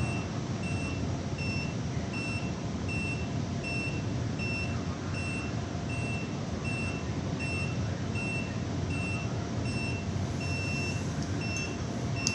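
Electronic warning alarm beeping steadily, about two short high beeps a second, over a continuous low rumble of machinery or engine noise.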